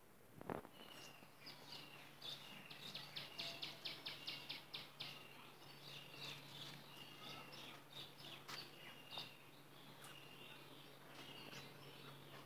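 Faint chirping of small birds, with a rapid run of short chirps, about five a second, between roughly two and five seconds in, and scattered short whistled notes, over a steady low hum.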